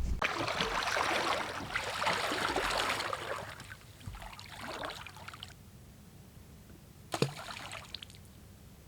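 Water splashing and sloshing as duck decoys are set out from a boat, loudest for the first three seconds and then fading. A single short knock about seven seconds in.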